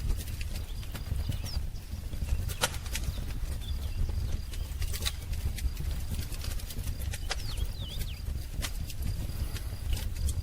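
Wood fire crackling, with scattered sharp pops over a low, steady rumble. A few faint bird chirps come through, about a second and a half in and again near eight seconds.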